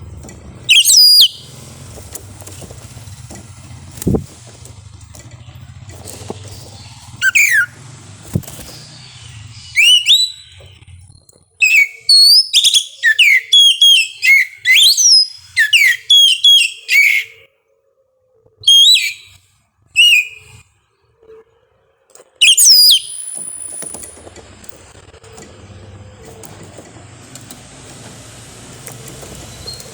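Oriental magpie-robin (kacer) singing: loud, varied whistled phrases with quick rising and falling glides, a few scattered notes at first, then a dense run of phrases in the middle before they thin out. A low steady hum runs underneath at the start and near the end.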